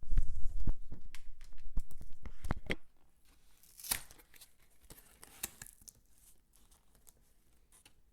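Dry soap peelings being crumbled and crunched by hand close to the microphone: a dense crackling for about three seconds, then a few scattered light crackles.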